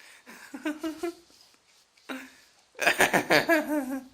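Human voices with no clear words: a short utterance about half a second in, then a louder stretch of overlapping, wavering voicing in the last second and a half, like laughter or cooing.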